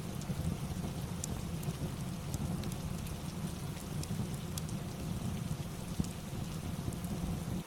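Steady rain ambience with a low rumble, mixed with the scattered sharp pops and crackles of a fireplace.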